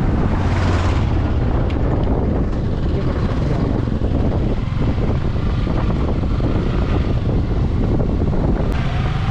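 Yamaha R15 V3's 155 cc single-cylinder engine running on the road, with steady wind rushing over the microphone.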